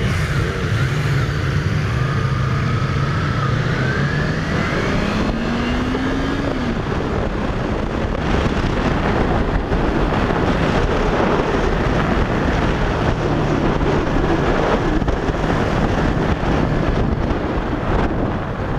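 Yamaha YZF-R3's parallel-twin engine running steadily, then rising in pitch as the bike accelerates a few seconds in, followed by a steady rush of engine and riding noise.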